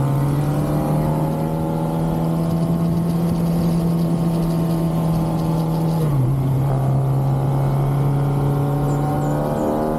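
Kawasaki ZX-6R's stock inline-four engine running at a steady pitch under way; the note drops about six seconds in and steps back up near the end.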